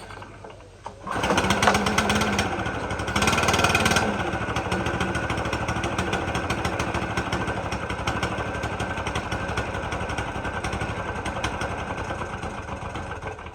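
Stihl BR600 backpack blower engine revved up about a second in, loudest for a moment, then held at high speed with the fan rushing before dropping back near the end. This is a throttle test while the carburetor's low-speed mixture is being tuned.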